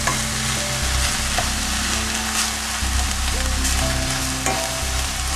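Sliced onions and bell peppers sizzling as they fry in a stainless steel pan, stirred with a wooden spoon, with a few light scrapes against the pan.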